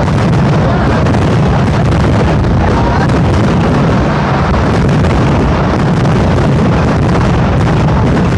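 Kerala temple fireworks going off in a continuous barrage of firecracker blasts, so dense that the bangs merge into one unbroken, very loud din that overloads the recording.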